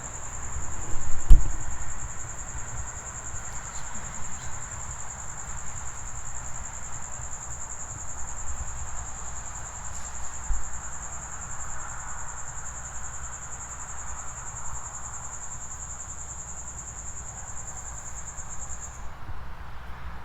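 A cricket trilling steadily on one high pitch, stopping near the end. A single sharp thump about a second in, over a faint low rumble.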